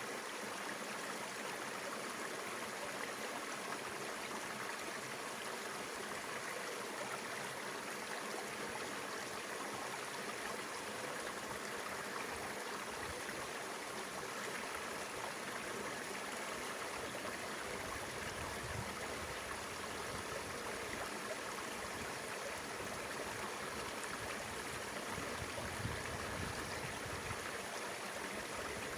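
Mountain river water flowing steadily over rocks, an even rushing. Some low rumbling joins it in the last third.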